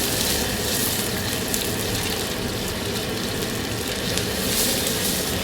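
Steady hiss of a commercial kitchen's wok station in use.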